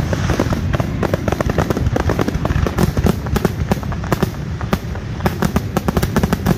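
Fireworks going off in a rapid, continuous barrage: many sharp bangs and crackling reports a second over a deep rumble, with no pause.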